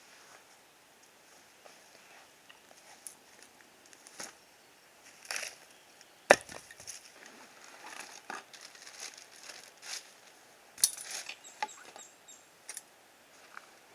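Irregular knocks, snaps and crackles of wood being handled and broken, with one sharp crack about six seconds in and a short cluster of snaps near eleven seconds.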